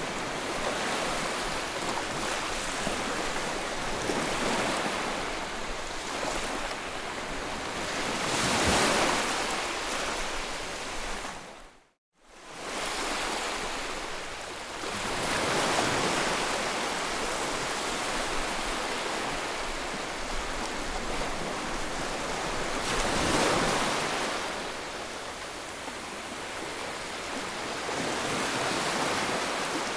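Ocean waves surging and washing on a shore, a steady rush of surf that swells louder every several seconds. About twelve seconds in the sound briefly fades out to near silence and back in, a loop join in the recording.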